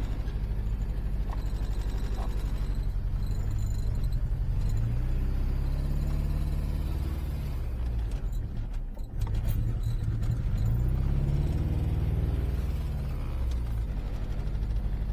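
Supercharged Acura Integra GSR's four-cylinder engine idling unevenly, its speed rising briefly twice and sagging for a moment about nine seconds in. The engine has blown piston rings and is running rich.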